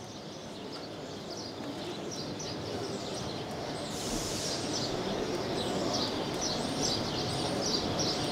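Small birds chirping repeatedly in short, quick calls over a steady background noise that slowly grows louder.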